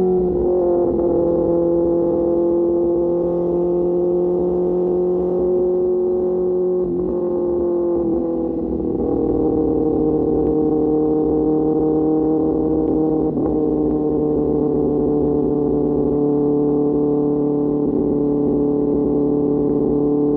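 QJ Motor SRK600's inline-four engine running through an SC-Project exhaust at steady revs on the move; the pitch eases down slightly about eight seconds in, then holds steady.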